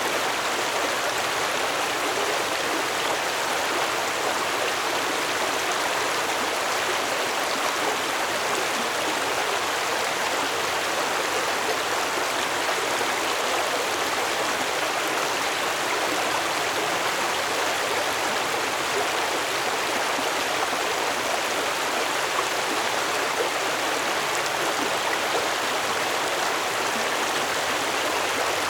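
Stream water flowing and splashing steadily over rocks, an even rushing sound.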